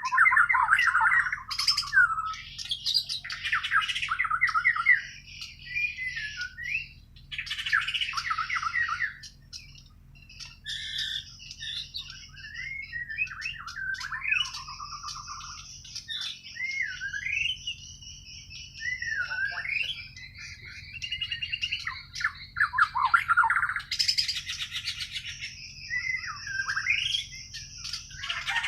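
White-rumped shama (Bornean murai batu) singing continuously in varied phrases of rapid trills, rising and falling whistles and harsh notes, with short pauses between phrases. It is natural, untutored song.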